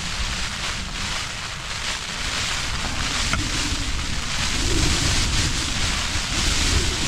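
Strong upland wind gusting against a tent, a continuous rushing hiss over low rumbling buffets, swelling a little about four seconds in.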